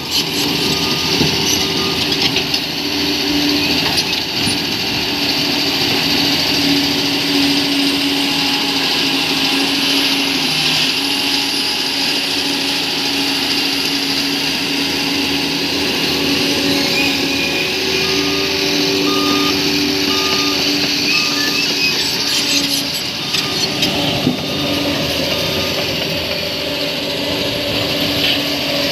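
Crawler bulldozer's diesel engine working steadily, with a reversing alarm beeping in short runs at the start and again about twenty seconds in.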